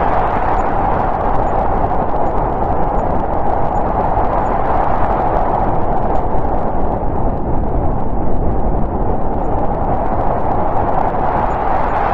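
Snowstorm wind sound effect: steady rushing wind whose energy sits in the middle range, thinning a little about seven seconds in and building back up near the end.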